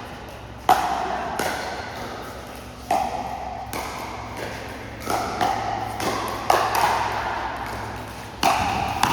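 Pickleball paddles hitting the plastic ball in a rally: about seven sharp pocks, irregularly spaced about a second apart, each with a short ringing tail.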